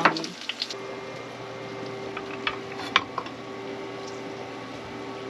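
Brussels sprouts sizzling in a frying pan, with a few light clinks of a utensil on the pan near the middle, over a steady hum.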